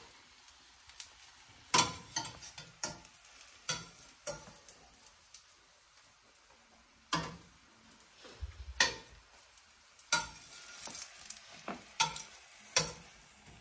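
Shrimp patties frying in oil in a stainless steel skillet with a faint, steady sizzle. A metal spatula clinks and scrapes against the pan in short, sharp knocks every second or two.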